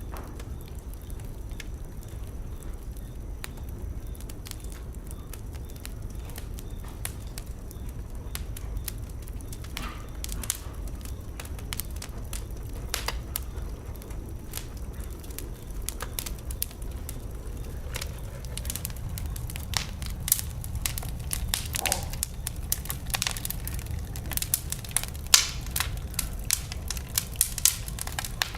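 Wood fire burning in a fireplace: a low steady rumble with sharp crackles and pops, sparse at first and coming thicker and louder over the last third.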